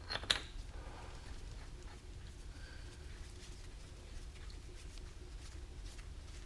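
Workpiece being handled: one sharp knock about a third of a second in, then faint scattered taps over a low steady shop hum.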